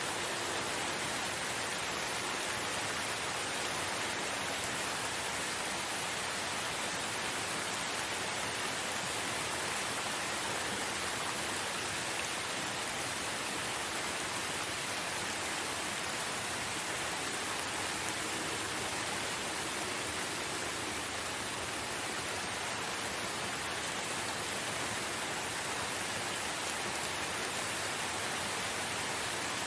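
Steady rain falling in a forest, an even hiss of many drops with no pauses or changes.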